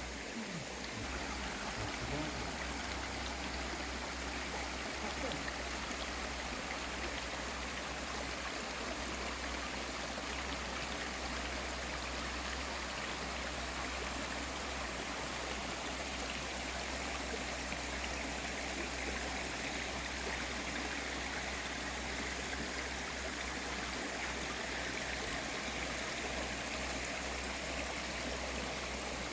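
Mountain valley stream flowing over rocks, a steady rushing and trickling of water.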